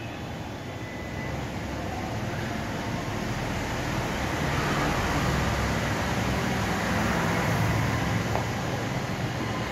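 Maruti Suzuki Ignis 1.2-litre four-cylinder petrol engine running low as the car manoeuvres in a covered concrete parking garage, getting louder about halfway through as it pulls round.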